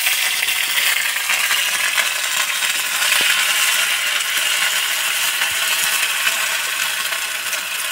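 Ginger-garlic paste frying in hot oil in a kadai: a loud, steady sizzle and crackle, stirred with a metal spatula.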